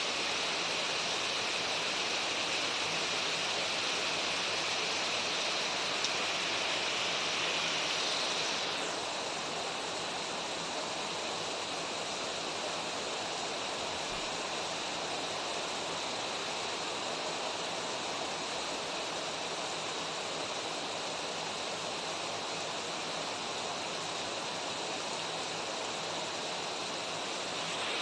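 Steady hiss of rain and running creek water, even and unbroken; about nine seconds in the brighter, higher part of the hiss drops away and it continues a little softer.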